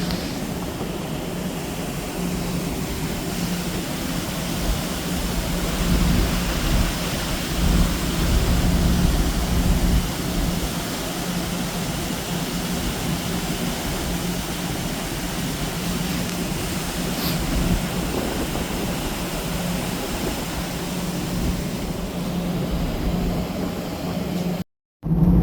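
Steady rumble and hum of a car ferry's engines, with a constant low drone under rushing wind and sea noise. The sound cuts out briefly just before the end.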